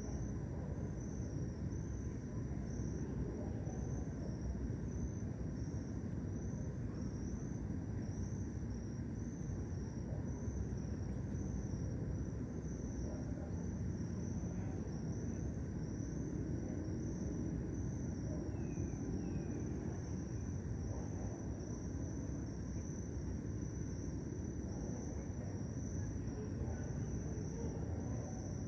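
Crickets chirping in a steady, evenly pulsing high trill, over a low rumble of distant city traffic.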